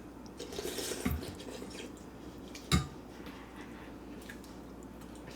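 Tableware being handled: a soft knock about a second in and a sharp single clink a little before the three-second mark, over a low steady background.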